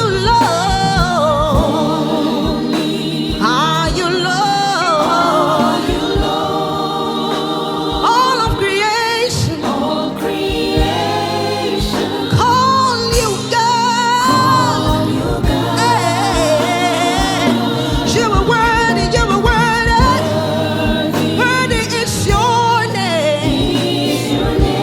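Gospel worship music: voices singing sustained, gliding vocal lines over a band with sustained chords and a steady drum beat.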